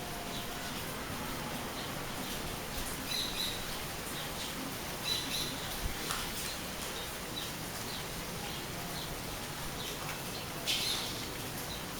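Steady rainfall, an even hiss, with birds chirping now and then over it: a few short high calls, the loudest near the end.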